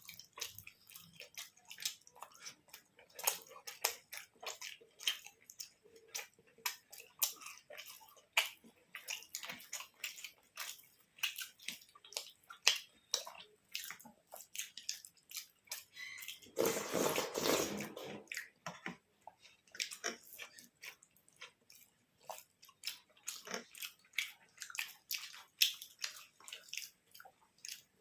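Close-up eating sounds: wet chewing and mouth clicks from someone eating paratha with suji halwa, in quick irregular ticks. A louder, longer rustling smack comes about 17 seconds in.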